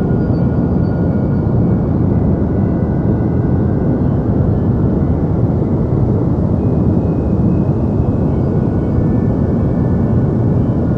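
Steady deep white noise for sleep: an even, unbroken hiss-rumble weighted toward the low end, with faint thin high tones drifting in and out.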